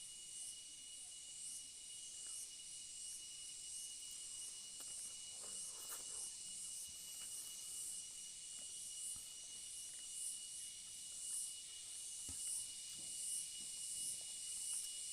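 Insects chirping in a steady pulsing chorus, about one and a half pulses a second, over a thin steady high whine. There are a few faint soft knocks.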